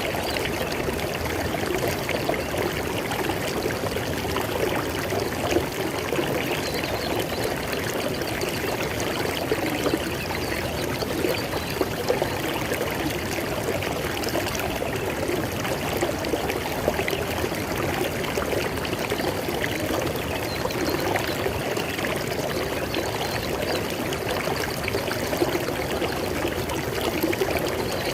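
River water flowing steadily over rocks, a continuous burbling rush with small splashes.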